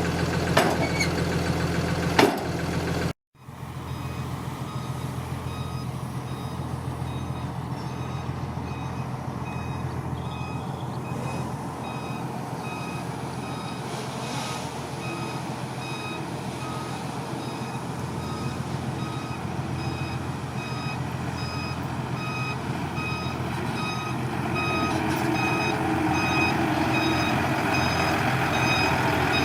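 Heavy machine's reversing alarm beeping about once a second over a diesel engine running, growing louder near the end. Before a sudden break about 3 s in, the engine runs with two sharp knocks.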